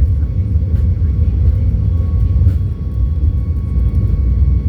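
Boeing 737 MAX 8 jet engines (CFM LEAP-1B) running at steady power: a loud, even low rumble with a few faint steady whining tones over it.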